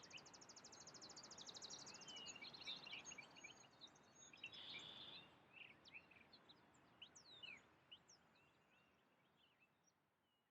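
Faint birdsong: several birds chirping and calling over a soft outdoor hiss, with a fast, even trill in the first two seconds. The sound slowly fades out towards the end.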